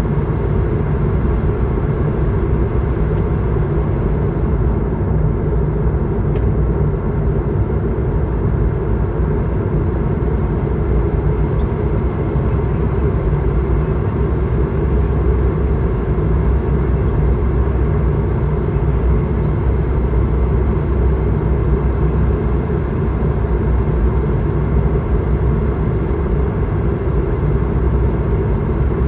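Steady cabin roar inside an Airbus A220-300 airliner in flight: the rumble of its Pratt & Whitney PW1500G geared turbofans mixed with airflow over the fuselage, with a faint, high, steady whine on top.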